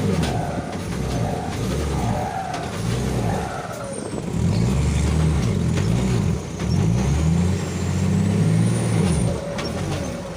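Loud exhaust of an unremapped diesel truck engine being revved repeatedly, the engine note climbing and falling in several blips.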